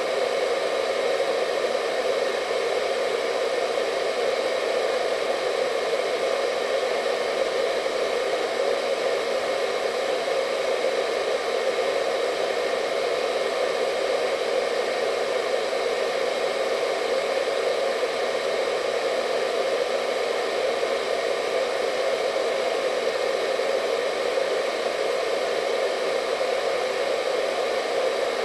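Hair dryer running steadily: a constant airy hiss with a faint motor whine on top, unchanging throughout.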